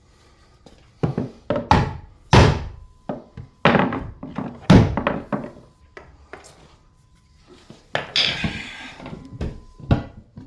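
A series of irregular knocks and thuds from wooden pieces being handled and knocked during a shower repair, with a short scraping sound near the end.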